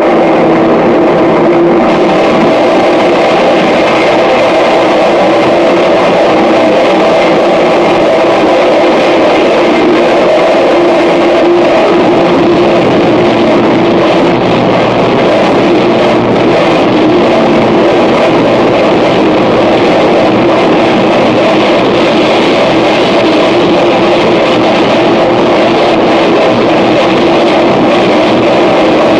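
Harsh noise music: a loud, dense wall of distorted noise with steady droning tones held underneath, unbroken throughout.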